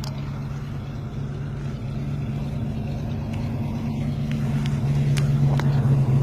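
A steady low engine drone over rushing noise, growing louder through the second half, with a few faint ticks.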